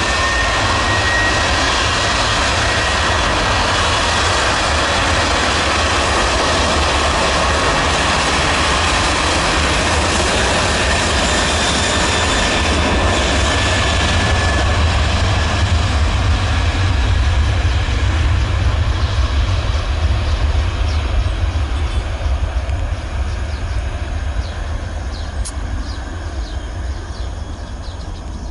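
Jet airliner engines running at high power close by: a loud rush over a deep rumble, with a high whine that climbs slightly at the start and then holds. The noise fades over the last several seconds as the aircraft moves away.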